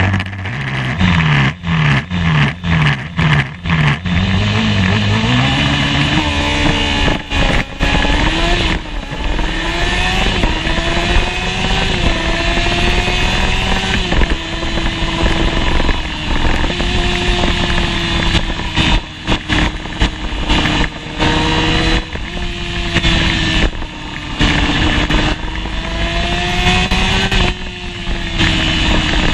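Honda CBR600 F1 inline-four sport-bike engine heard onboard: low and pulsing for the first few seconds, then rising in pitch as the bike pulls away and climbing and dropping again and again through gear changes under hard acceleration, over a steady rush of wind noise.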